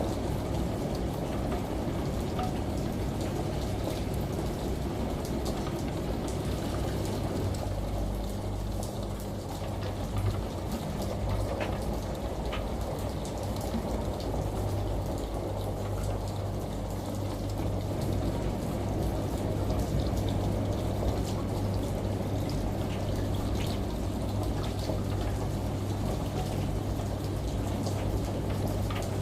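Rain and running water falling as an even hiss with scattered drop ticks, over a steady low washing-machine hum that grows stronger about seven seconds in.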